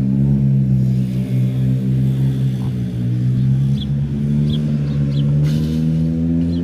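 An engine running steadily, its pitch rising slightly near the end, with short high chirps now and then.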